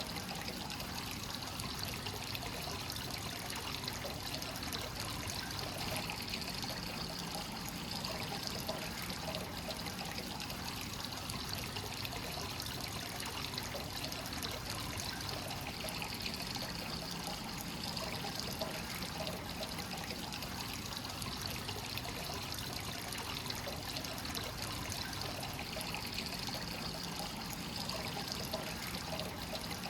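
Hot spring water flowing continuously from the source outlet into the bath, a steady trickling and splashing pour.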